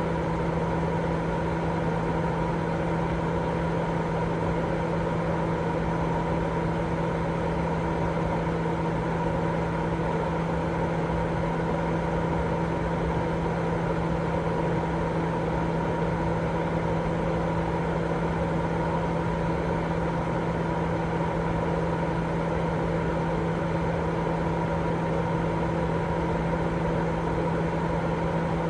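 Continuous white noise for baby sleep: a steady, unchanging hiss weighted toward the low end, with a constant low hum running through it.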